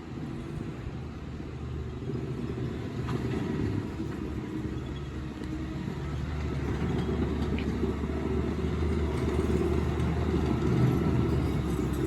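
Tracked skid steer engine running steadily with a low rumble, growing louder through the second half.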